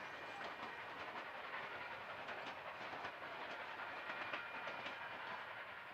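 Passenger train cars rolling over jointed rail, with the wheels clicking repeatedly over the rail joints.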